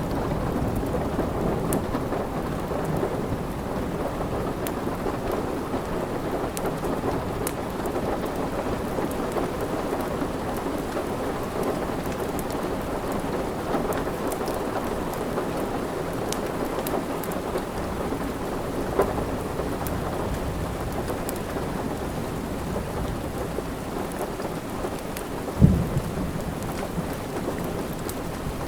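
Steady rain, with faint sharp crackles of a wood fire scattered through it. A short, louder low thump comes near the end.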